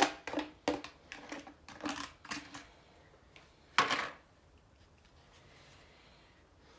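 Utensil clicking and scraping in a takeout food bowl, mixed with close-up eating sounds, then one louder clatter about four seconds in.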